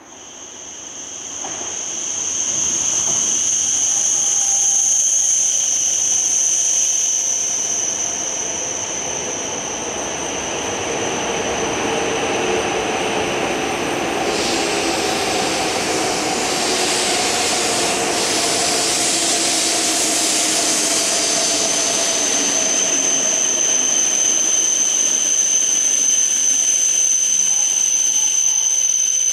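E5 series Shinkansen pulling into the station and braking alongside the platform. The sound swells over the first few seconds into a steady rush, with a whine that slowly falls in pitch as the train slows and a high steady tone over most of it.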